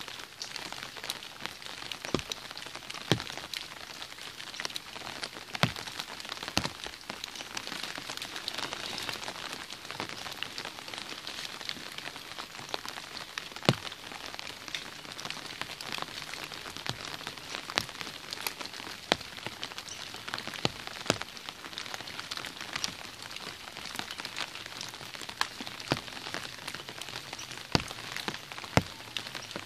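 Steady rain hissing, broken by irregular sharp taps of single large drops striking an umbrella overhead.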